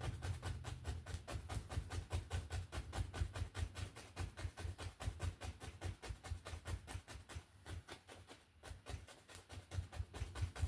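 A paintbrush tapped quickly and steadily, about seven or eight dull thumps a second, the kind of rapid tapping used to build up tree foliage in wet-on-wet oil painting. The tapping thins out briefly about eight seconds in.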